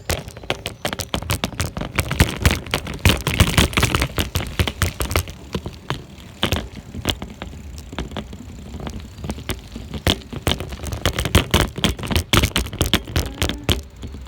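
Bicycle rattling and clattering over rough ground: a dense, irregular run of knocks and clicks, busiest in the middle and again near the end.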